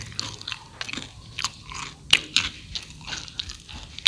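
Chewing of crispy fried rice cakes: irregular sharp crunches and crackles, the loudest about two seconds in.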